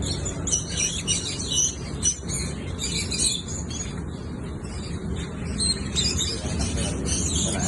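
Lovebird chirping in quick bursts of high, sharp calls.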